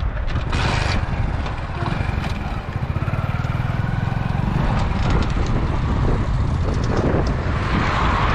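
A motor vehicle's engine running steadily close alongside at road speed, with wind noise on the microphone.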